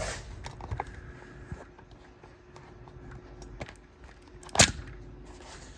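Scattered clicks and light knocks of small metal fan hardware being handled, with one sharp knock about four and a half seconds in. A faint steady hum runs underneath and stops at the knock.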